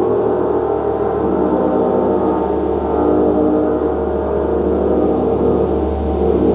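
Gong played continuously: a dense, steady wash of many overlapping ringing tones, with no single strike standing out.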